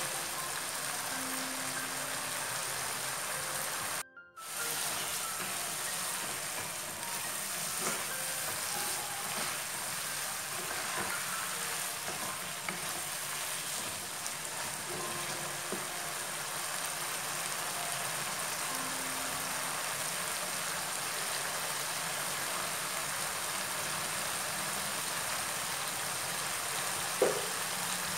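Chilli-paste sambal with anchovies and petai beans frying in a nonstick wok, a steady sizzle with a spatula stirring through it as it cooks down. The sound cuts out briefly about four seconds in, and there is one sharp knock near the end.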